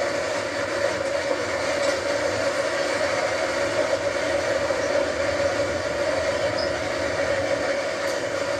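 Train running on the track: a steady noise with a constant mid-pitched hum and no change in level.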